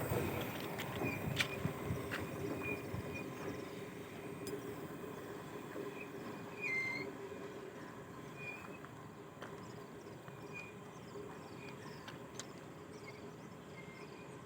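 A passing goods train's rumble dying away as it recedes, with occasional short high squeaks and a few sharp clicks.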